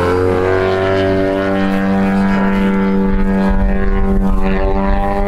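100cc two-stroke gas engine of a giant-scale aerobatic RC airplane running in flight, its propeller note holding a fairly steady pitch. A low rumble joins it about halfway through.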